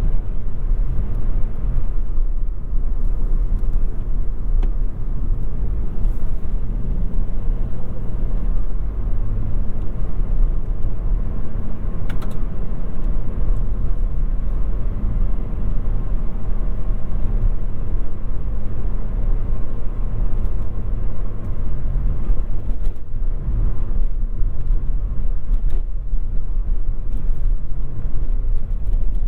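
2022 Toyota Yaris 1.5 hybrid driving through town, a steady low rumble of road, tyres and drivetrain.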